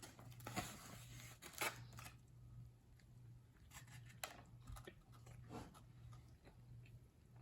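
Faint eating noises from a pulled pork sandwich: a few scattered crunchy clicks and rustles as it is bitten and chewed.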